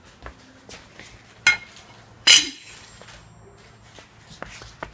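A heavy piece of steel being handled and set down: two sharp metallic clanks less than a second apart, the second louder with a short ringing after it, among a few light knocks.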